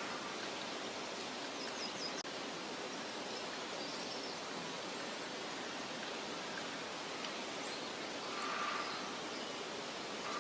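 Meadow ambience: a steady soft hiss of wind in grass and foliage, with a few faint, brief bird chirps scattered through and a slightly louder call near the end.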